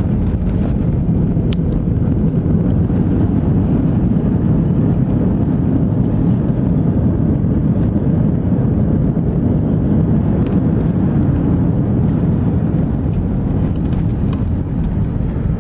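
Steady low roar of an airliner heard from inside the cabin just after landing, engines running and the plane rolling on the ground, with a few faint clicks.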